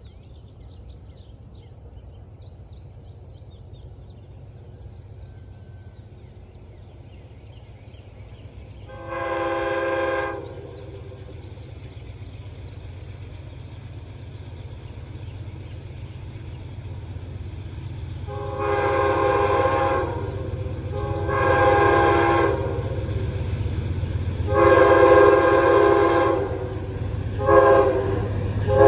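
Amtrak P42DC locomotive's hybrid K5LA air horn sounding a multi-note chord: one blast about nine seconds in, then from about eighteen seconds three long blasts, a short one, and another long one starting near the end. Under it a low rumble from the approaching train grows steadily louder.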